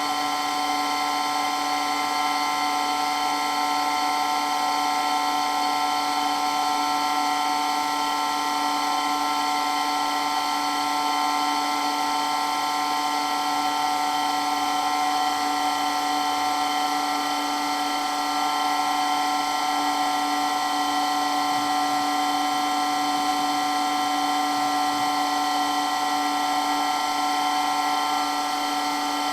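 Water pump running steadily, a whine of several held tones that does not change.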